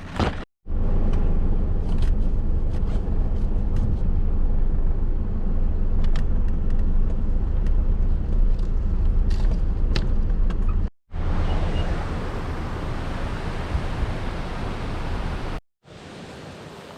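Four-wheel-drive vehicle driving a rough track: a loud low rumble with scattered knocks and rattles, in several cut-together clips. The later clip turns to a steadier rushing noise.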